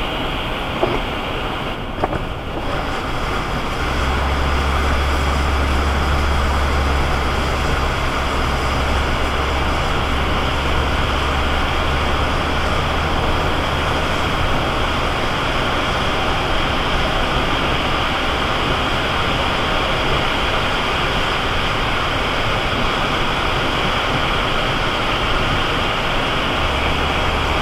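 Car driving on a rain-soaked freeway in a storm: a steady hiss of tyre spray and road noise, with a low drone that comes in about four seconds in, fades halfway through and returns near the end.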